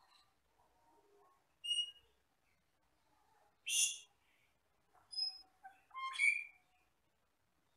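Asian glossy starling (cucak keling) calling: a few short, clear whistled notes mixed with harsher chirps, given singly with gaps of a second or more, the loudest a harsh note about midway and a burst of several notes near the end.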